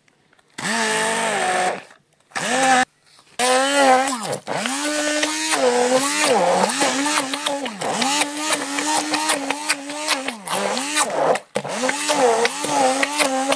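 Electric blender motor run in short bursts, then held on for longer stretches, its whine dipping in pitch and recovering again and again as it takes the load.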